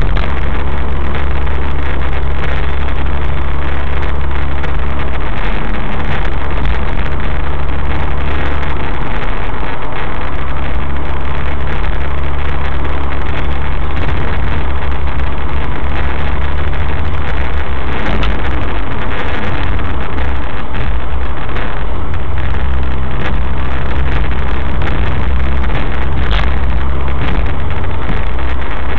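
Suzuki SX4's four-cylinder engine, breathing through a K&N Apollo cold-air intake, running at a steady cruise under a haze of road and tyre noise. The low engine hum shifts a few times.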